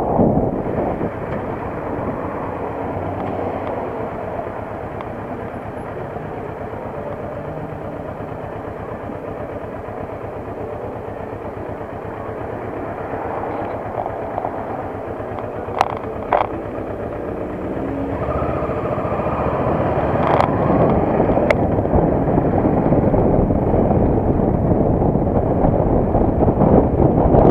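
Motorcycle engine running while riding, with wind on the microphone. A couple of short clicks come about halfway. From about two-thirds in, the engine pitch rises and the sound grows louder as it picks up speed.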